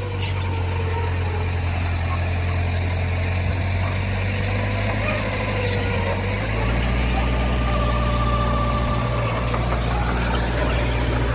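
Heavy diesel engine of earthmoving machinery running steadily, its note shifting and getting a little louder about six and a half seconds in.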